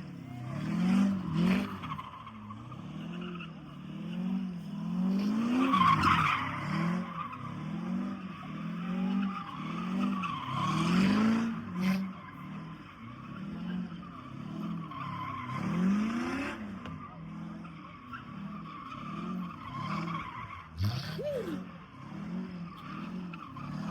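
A car doing a burnout: the engine revs up and down over and over while the tyres squeal on the pavement.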